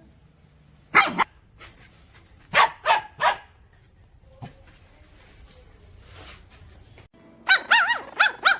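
Puppies barking: a sharp bark about a second in, three quick barks a little later, then after a pause a rapid run of higher-pitched, wavering yaps near the end.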